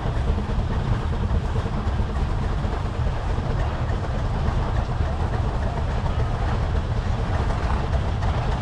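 Case steam traction engine working steadily under load, pulling a twelve-bottom plow, with a low, even rumble.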